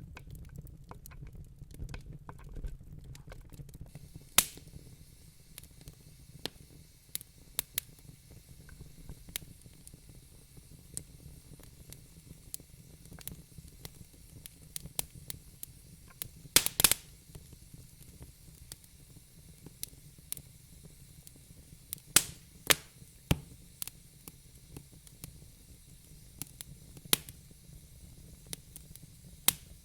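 Wood fire burning in a fireplace: a low steady rumble of flames with frequent sharp crackles and pops, a few loud snaps standing out, the loudest about 17 seconds in.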